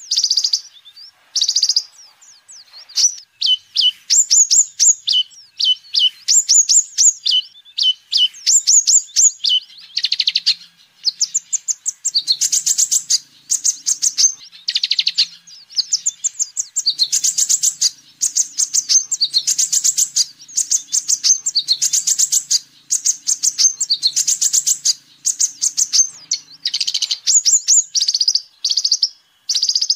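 A kolibri ninja sunbird singing: rapid strings of high, thin chirps and trills in short phrases, one after another with brief pauses, with a faint low hum under the later part.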